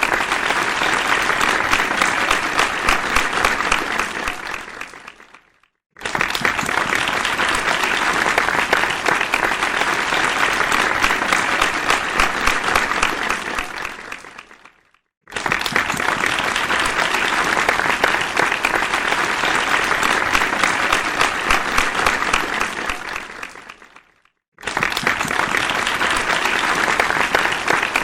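Audience applause, a dense steady clapping that fades away to silence and then starts again suddenly, three times.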